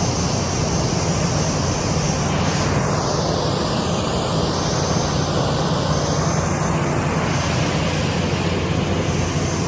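Jet airliner engines running, a loud steady rush of noise over a low hum.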